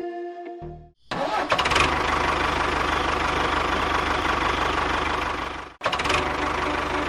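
Music cuts off within the first second. A small engine then starts abruptly and runs steadily and loudly, dropping out briefly near the end before resuming.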